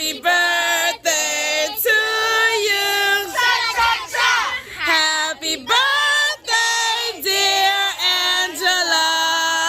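A group of children and women singing together, holding high notes with vibrato in short sung phrases.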